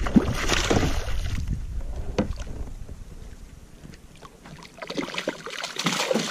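Water splashing and slapping around a kayak while a hooked grunter is fought at the side, with a few sharp knocks and wind rumbling on the microphone, the rumble dropping away about two-thirds of the way in.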